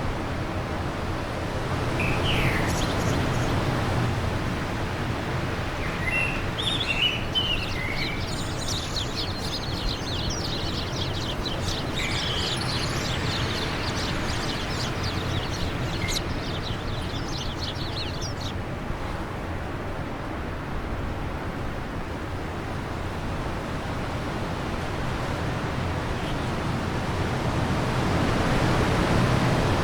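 Steady wind blowing, with small birds chirping from a couple of seconds in until just past the middle, including a fast run of short high chirps; after that only the wind remains.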